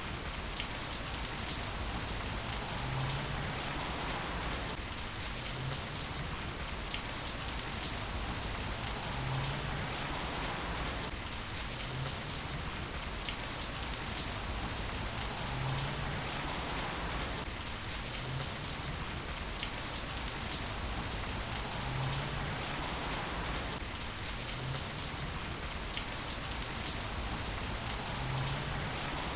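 Heavy rain falling steadily: a dense, even hiss of drops on hard surfaces, with a few sharper drip taps now and then.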